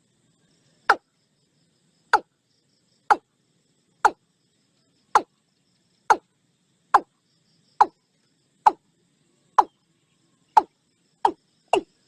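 Male watercock calling: a series of short, hollow single notes about one a second, speeding up near the end.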